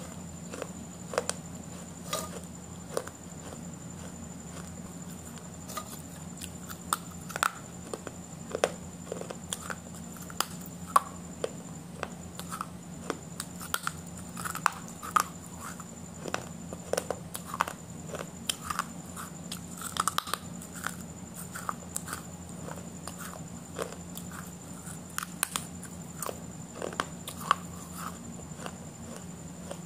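A person chewing and biting food close to the microphone: many short, irregular mouth clicks over a steady low hum.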